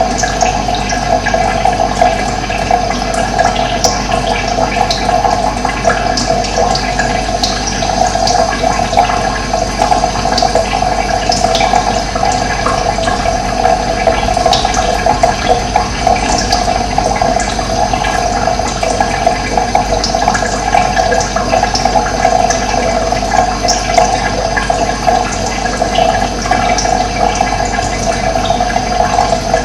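Running water: a steady rush of flowing water with many small splashes scattered through it.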